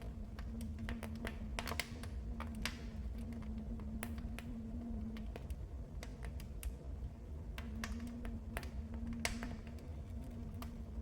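Wood fire crackling in a fireplace: irregular sharp pops and snaps of burning wood over a steady low rumble.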